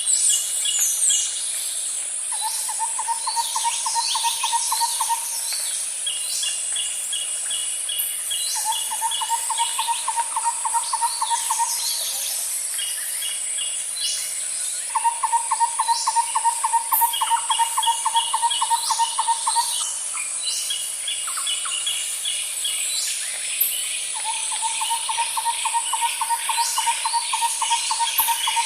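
Outdoor nature ambience: a steady high insect drone, a rapid low pulsing trill that comes in four long phrases a few seconds apart, and short bursts of quick bird chirps.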